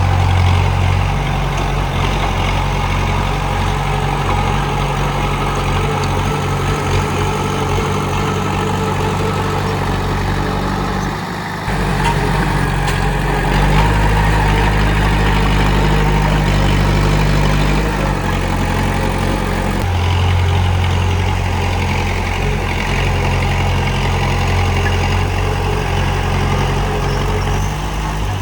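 Komatsu D31P bulldozer's diesel engine running continuously, its low note changing with load: a short drop about eleven seconds in, then louder stretches after.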